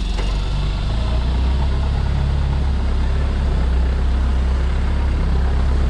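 Modified Toyota Hilux's 3.0 turbo diesel engine running steadily while the truck is winched and crawled up a rock ledge.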